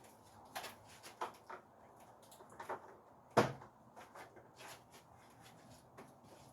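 Scattered knocks and clatter of a car's battery tray being set back into the engine bay and handled, with one sharper, louder knock about halfway through.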